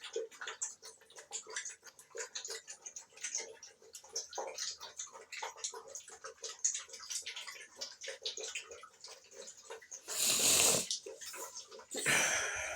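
Puppies lapping water from a bowl: quick, irregular wet laps, several a second. Near the end come two louder, longer rushing noises.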